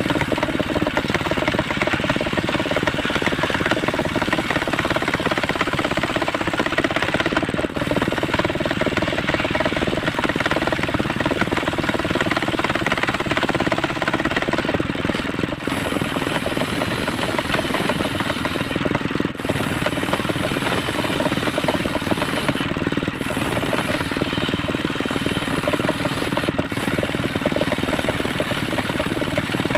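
Homemade circular saw running steadily, its blade ripping through waru wood.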